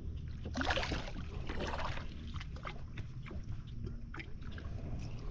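Water splashing and sloshing against a kayak, with a louder splash about a second in and small knocks and drips after it, over a steady low rumble.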